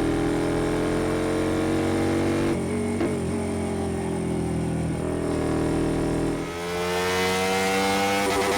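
Honda XL125V Varadero's 125 cc V-twin, breathing through an aftermarket BlackWidow exhaust, running under way. The note eases and settles lower a couple of seconds in and dips briefly about six and a half seconds in. It then climbs steadily in pitch as the bike accelerates, with rising wind noise.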